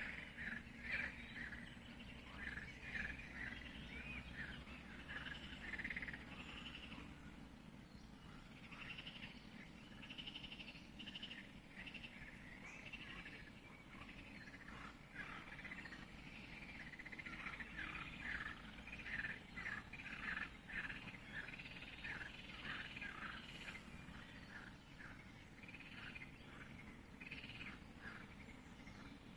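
Birdsong: many short chirps and warbling calls overlapping, faint over a steady low background hum.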